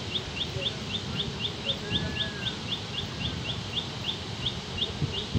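A bird repeats a short, high chirp at an even pace of about four a second. Underneath runs a steady low rush of fast river water and wind.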